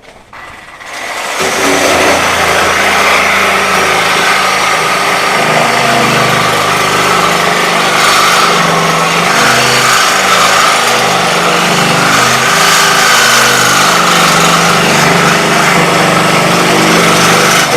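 A small motor or engine starts about a second in, comes up to speed and runs steadily under a shifting load, then cuts off near the end and winds down.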